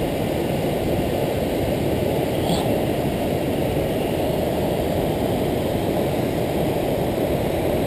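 Waterfall roaring steadily, a dense unbroken rush of falling water heaviest in the low range. A brief faint high chirp comes about two and a half seconds in.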